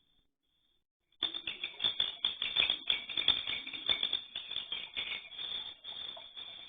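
Swiftlet chicks giving rapid, rattling begging calls that start suddenly about a second in, busiest in the middle and tapering off toward the end.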